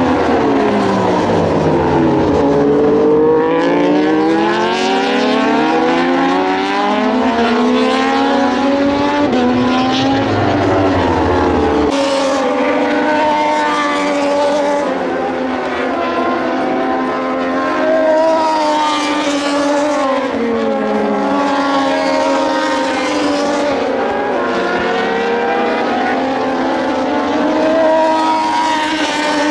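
Several Moto2 race bikes with Triumph 765cc three-cylinder engines running at speed on track, their engine notes overlapping and repeatedly rising and falling as the bikes accelerate, shift and brake past.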